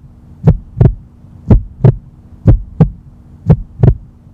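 Heartbeat-style double thumps, a lub-dub pair about once a second, four pairs in all, over a faint steady low hum.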